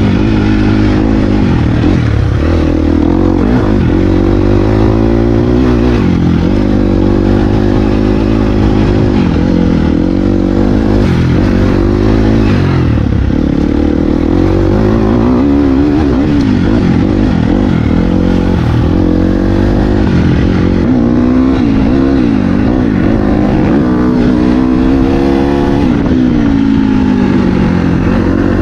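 Dirt bike engine running under throttle, its pitch rising and falling over and over as the rider opens and closes the throttle.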